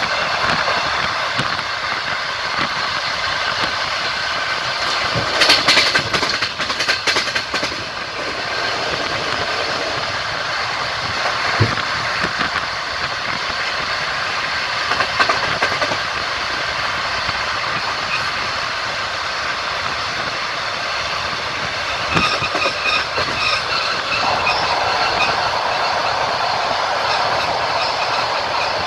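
Passenger train running on the line, its wheels clacking over the rail joints, with a denser burst of clatter about five to seven seconds in.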